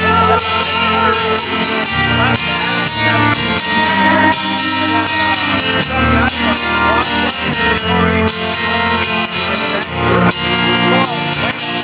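Live rock band playing, with guitars to the fore.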